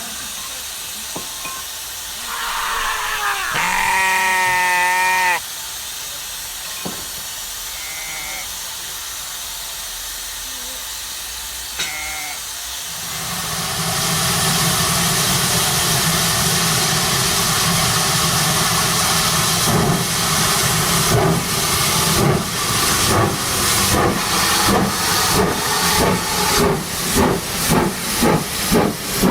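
Steam locomotive sound of a Midland 4F: a loud steady hiss of escaping steam begins about halfway through, then exhaust chuffs start slowly and quicken as the engine gets under way. Earlier, a single wavering bleat from a sheep.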